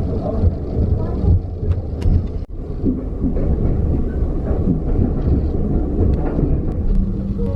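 Heritage steam train on the South Devon Railway running along at slow speed: a steady low rumble with scattered clicks and knocks, broken by a short drop-out about two and a half seconds in.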